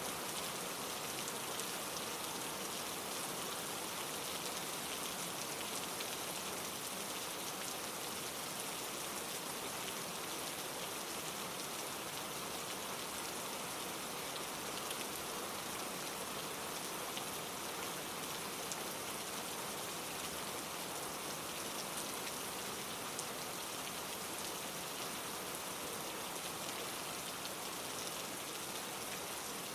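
Steady rain falling, with scattered light drop ticks.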